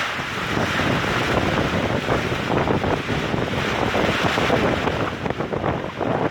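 Heavy thunderstorm rain pouring down, with strong wind gusts buffeting the microphone. The sound is a loud, steady rush that turns more uneven and gusty near the end.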